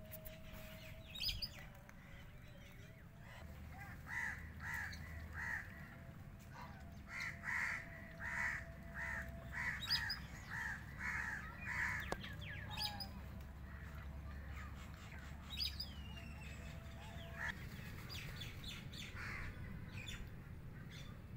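A bird calling in a run of about a dozen short, evenly spaced calls, roughly two a second, starting a few seconds in and stopping about halfway through. Small birds chirp briefly now and then over a low, steady hum.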